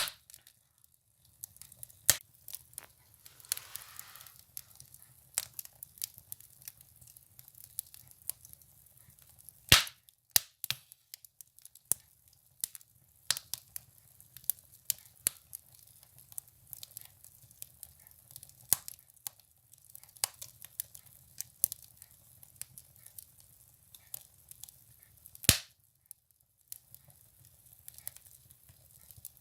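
Firewood burning in a stove, crackling with irregular sharp pops. The loudest cracks come about ten seconds in and again near the end, over a steady low rumble.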